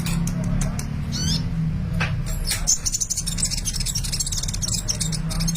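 Sunbird singing a fast, high-pitched song of chirps and trills, thickening into rapid chattering from about two and a half seconds in, over a steady low hum.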